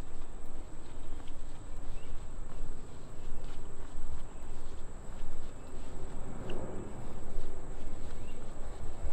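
Insects droning in a steady high-pitched chorus, over an uneven low rumble, with a few faint short chirps.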